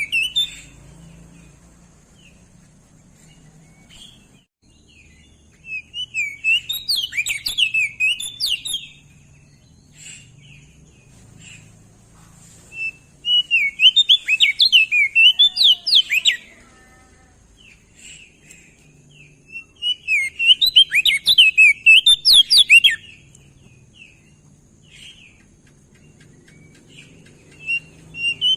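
Crested white-eye (opior jambul) singing: bouts of rapid, warbling high twittering about three seconds long, repeated every six seconds or so, with faint short calls in the gaps.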